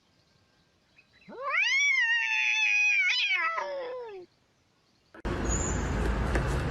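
A domestic cat gives one long, drawn-out meow of about three seconds, sliding up at the start and falling away at the end. About five seconds in, a loud steady noise begins.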